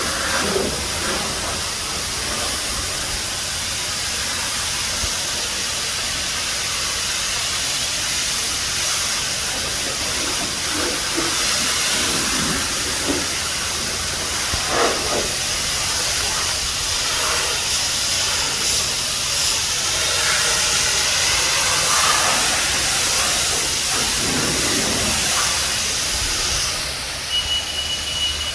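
High-pressure spray wand of a self-serve car wash spraying water in a steady hiss. The spray cuts off about 27 seconds in, and a steady high-pitched electronic tone starts.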